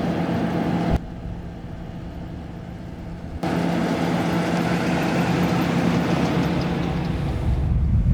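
1977 Pontiac Grand Prix engine idling steadily. The sound drops abruptly to a quieter level about a second in, comes back about three and a half seconds in, and grows louder near the end.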